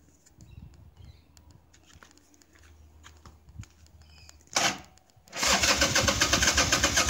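Harley-Davidson Sportster 1100's V-twin engine starting for the first time after a carburettor rebuild. After a few quiet seconds with faint clicks, a short burst of cranking comes about four and a half seconds in. The engine catches a moment later and runs loud with a pulsing beat.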